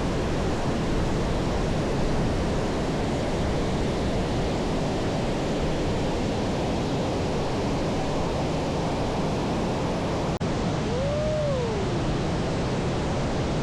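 Steady rushing of flowing water from a stream or waterfall. About ten seconds in the sound cuts out for an instant, and a short rising-then-falling call follows.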